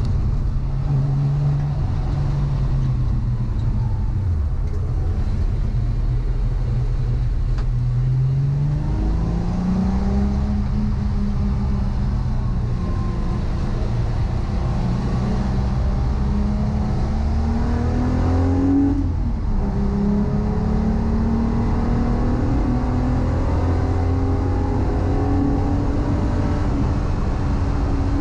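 Volkswagen Corrado's VR6 engine pulling under load, its pitch climbing slowly through the revs, with a sudden drop about two-thirds of the way through at a gear change, then climbing again.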